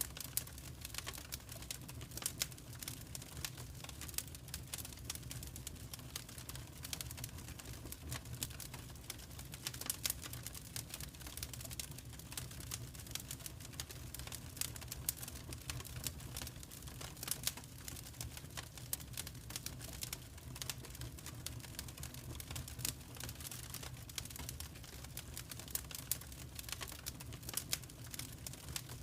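Wood fire crackling in a fireplace: constant irregular sharp snaps and pops over a low steady rumble.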